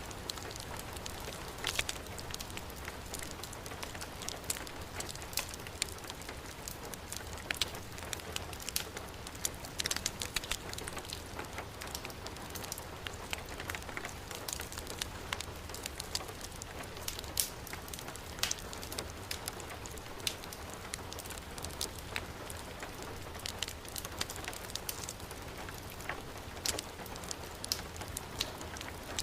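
Heavy rain falling steadily, mixed with a crackling wood fire: a constant hiss scattered with many short, sharp pops and ticks.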